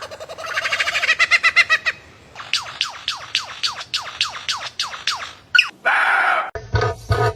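Bird calls: a fast trill, then a run of quick whistled notes that each sweep downward, about three a second. A short rasping burst comes near the end, followed by a deeper pulsed call.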